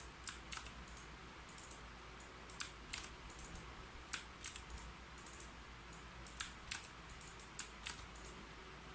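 Typing on a keyboard: uneven runs of sharp keystroke clicks with short pauses between them, stopping shortly before the end.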